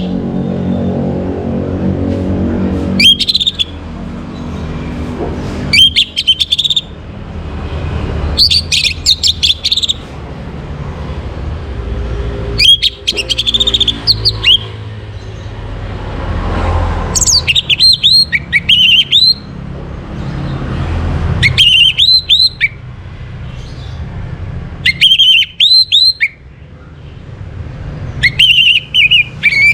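Orange-headed thrush singing: short loud phrases of quick, high whistled notes, repeated about every three to four seconds, over a steady low rumble.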